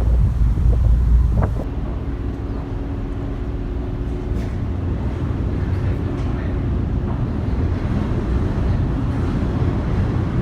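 Ferry engine droning steadily, with wind buffeting the microphone for the first second or so.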